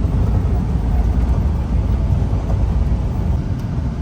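Semi-truck driving down the highway: a steady, deep rumble of the diesel engine and road noise.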